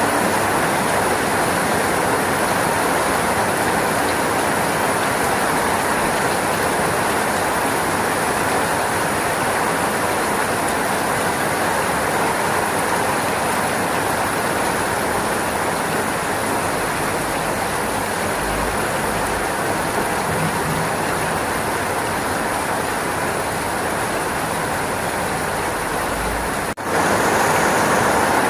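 Steady, continuous rainfall, an even hiss with no separate drops standing out. About 27 s in it cuts out for an instant and comes back slightly louder, like an edit or loop point in the recording.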